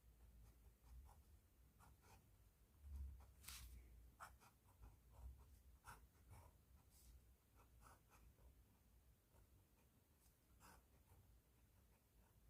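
Pen on paper: faint, short scratching strokes at an irregular pace, with a louder stroke about three and a half seconds in.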